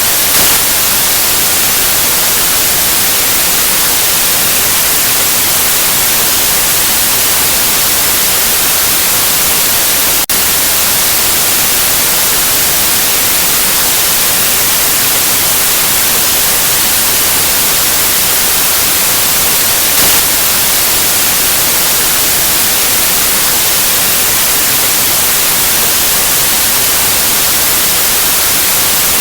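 Steady, loud white noise: an even, unbroken hiss across the whole range, with a tiny blip about ten seconds in.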